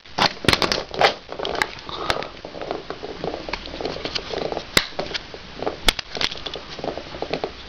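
Small plastic Bakugan toys and cards being rummaged through and handled by hand: irregular sharp clicks and knocks of hard plastic over a rustling, crackling background.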